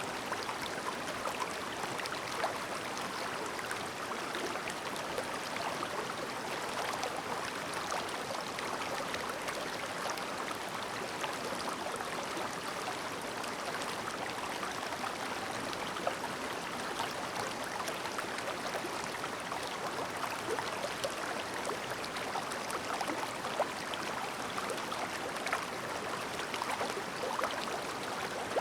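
Clear, shallow river babbling over stones: a steady rush of flowing water, dense with small splashes and gurgles.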